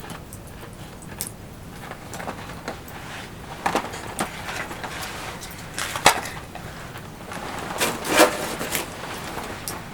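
Campfire wood making irregular snaps, clicks and knocks over a faint steady hiss. Louder knocks come about four, six and eight seconds in.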